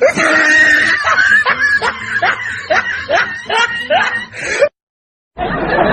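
A snickering laugh: a run of short, squeaky giggles, each rising in pitch, about three a second, cut off abruptly near the end. After a brief gap a noisy hubbub starts.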